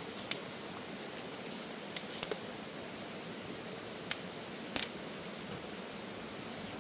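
A handful of short, sharp clicks or snaps, about six spread over the stretch, the loudest about two seconds in and near five seconds, over a steady low background hiss.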